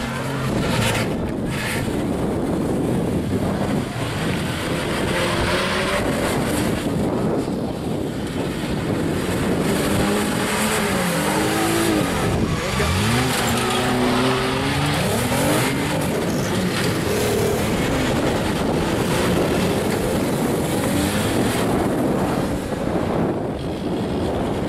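Demolition derby cars' engines running and revving up and down, with tyres skidding. Two sharp knocks about a second in.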